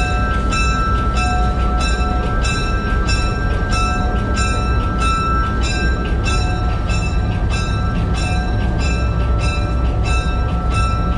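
Diesel locomotive cab on a moving train: a steady low rumble of engine and running gear, with a short ringing ding repeating evenly about twice a second.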